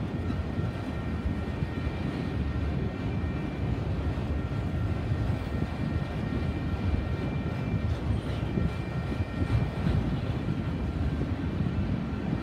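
Enclosed autorack freight cars rolling past at track speed: a steady rumble of steel wheels on rail, with a faint steady high whine over it.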